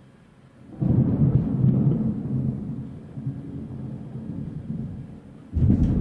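Two claps of thunder. The first starts suddenly and loudly about a second in, then rumbles on and slowly fades over several seconds. A second sudden clap comes near the end.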